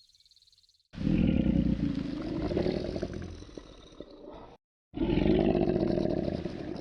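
A big cat roaring: two long, loud, low roars of about three and a half seconds each, starting about a second in, with an abrupt break between them; the second grows into rougher pulsing growls near the end.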